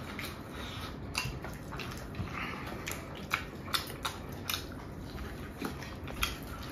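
A person chewing and biting food: soft smacks and clicks that come irregularly, roughly two a second.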